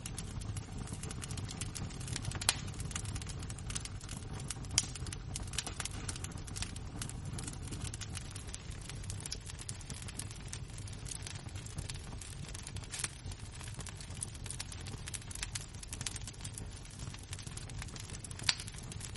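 Fire of glowing embers crackling: many small ticks over a low steady rumble, with four louder sharp pops.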